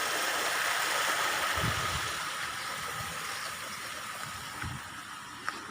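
Rushing stream water hissing steadily and growing gradually fainter, with soft footsteps on the ground about once a second.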